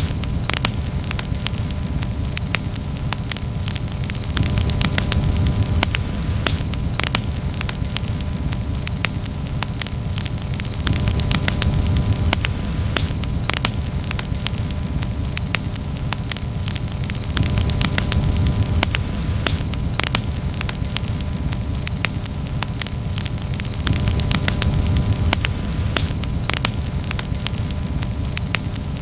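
Campfire burning, with many sharp crackles and pops from the burning wood over a steady low rumble.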